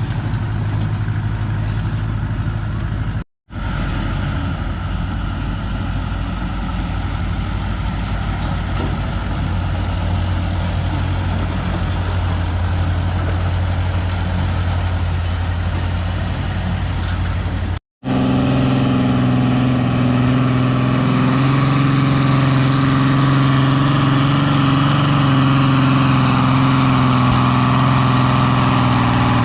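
Vintage farm tractor engine running steadily under load while pulling a weight sled. The sound drops out for a moment twice, about 3 s and 18 s in. After the second break the engine note is higher and louder, and it sags slightly near the end as the pull stalls.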